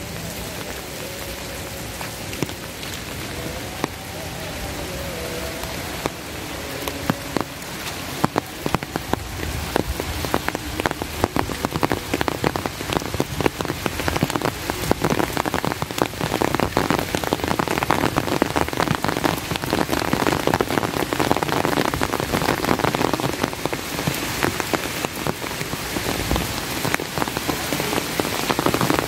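Rain falling steadily in many sharp, close drops, growing heavier and louder from about eight seconds in.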